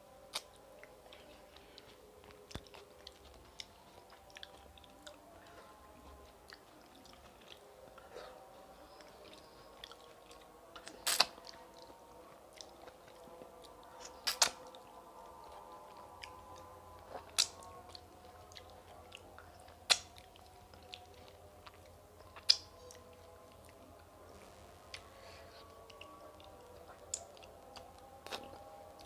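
Close-miked chewing and mouth sounds of someone eating rice and chicken curry, with many small wet clicks and a few sharp smacks about two to three seconds apart in the middle of the stretch.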